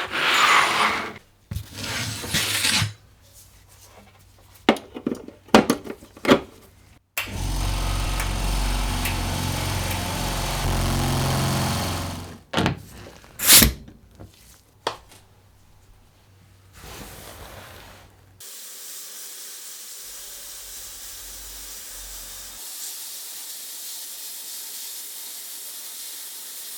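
Workshop tool work: clicks and knocks of parts and tools being handled, a power tool running steadily for about five seconds, more sharp knocks, then a steady hiss through the second half.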